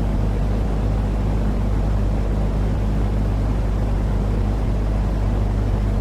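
Continuous sleep-noise track for soothing babies: a steady deep rushing noise with a low hum under it, unchanging throughout.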